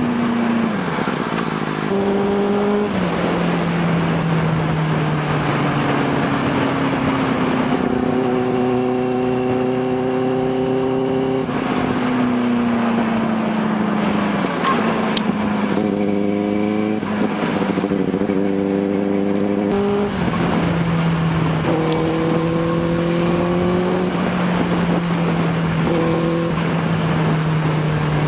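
Benelli TNT 600i inline-four with an IXIL aftermarket exhaust running under way. It holds a steady note that climbs slowly, falls away around the middle and changes pitch in steps with throttle and gear changes, over a steady rush of wind noise.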